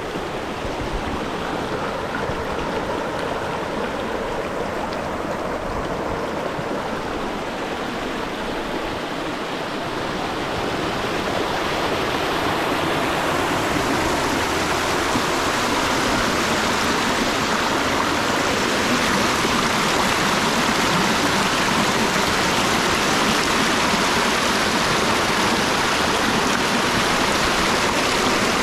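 Rushing water of a mountain stream and waterfall: a steady rush that grows louder and brighter about halfway through.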